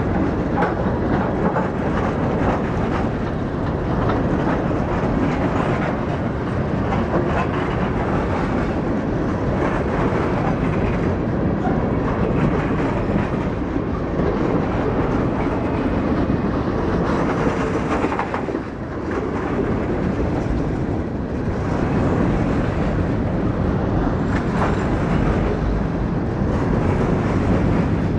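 Freight train cars rolling past, steel wheels running over the rails in a steady loud rumble, with a brief dip about two-thirds of the way through.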